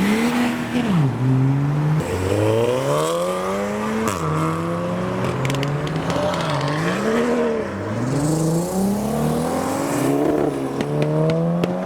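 Modified car engines revving and accelerating past one after another, the engine pitch climbing and dropping again and again with each rev and gear change.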